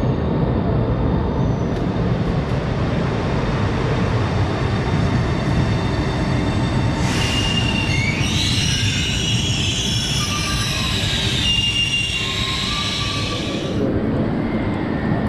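Italo high-speed train running in alongside an underground platform, a heavy steady rumble. From about halfway, high squealing tones come in as it slows, then cut off near the end.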